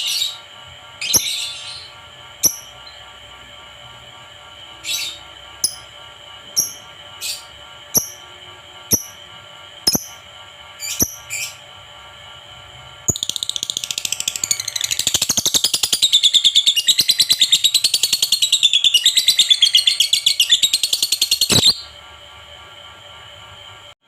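Lovebird calling: a series of short, sharp high chirps at irregular spacing, then a long, fast continuous trill lasting about eight seconds.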